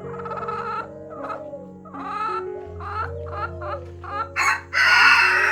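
Chickens clucking in a run of short repeated calls, then a rooster crowing loudly near the end, over background music.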